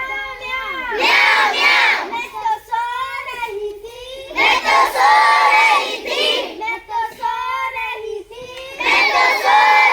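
A group of children chanting loudly in unison, in phrases of one to two seconds that come about every four seconds, with quieter voices between.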